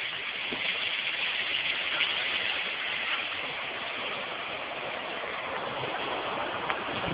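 Steady rushing of floodwater washing out the ground under a railroad track.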